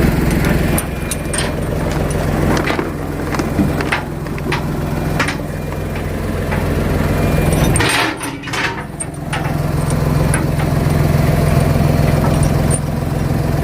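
An engine idling steadily, with scattered sharp knocks and clanks over it. The engine sound drops out briefly about eight seconds in and then returns.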